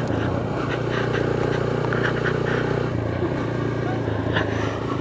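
Motorcycle engine running at a steady cruising speed while riding, with a steady engine hum under road and air noise.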